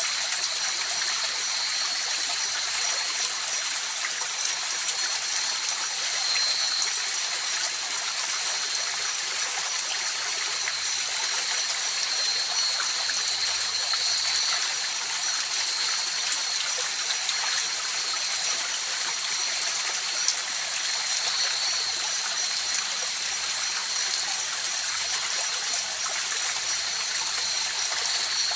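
River water flowing in a steady, unbroken rush, with a faint steady high-pitched tone running over it.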